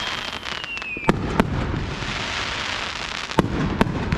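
Aerial fireworks going off low overhead: a dense, continuous crackling with four sharp bangs in two close pairs, about a second in and about three and a half seconds in. A thin whistle falls in pitch during the first second.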